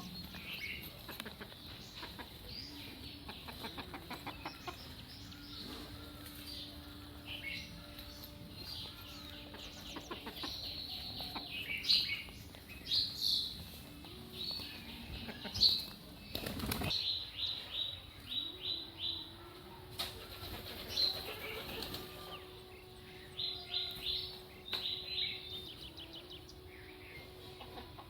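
Several birds chirping and calling in a rural morning chorus, with short rapid series of repeated high notes. A faint steady low hum runs beneath for stretches.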